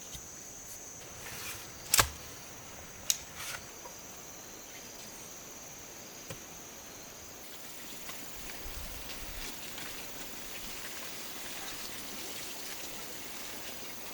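Insects trill steadily in a high, even band, broken by a few sharp knocks: the loudest about two seconds in and two more about a second later. The trill stops about halfway, leaving faint rustling and small ticks.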